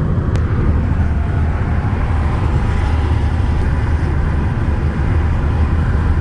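Car cabin noise at freeway speed: a steady low rumble of road and engine noise.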